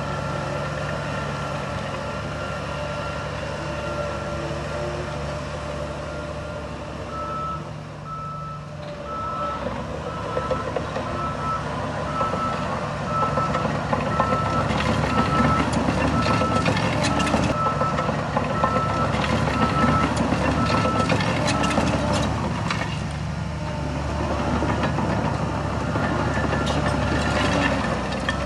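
Backup alarm of a heavy diesel machine beeping at one pitch about once a second while it reverses, over its engine running steadily. The engine grows louder partway through, and the beeping stops a few seconds before the end while the engine keeps running.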